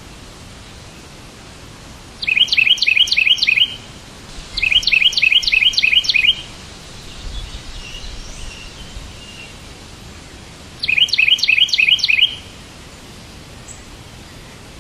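A songbird singing three phrases of quickly repeated chirps, each phrase about a second and a half long, about two seconds in, about five seconds in and about eleven seconds in. Fainter twittering comes between the second and third phrases, over a steady background hiss.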